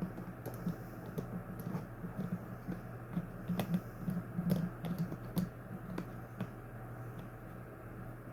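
Irregular light clicks and taps, several a second and busiest around the middle, from parts of a box fan being handled during cleaning, over a steady low hum.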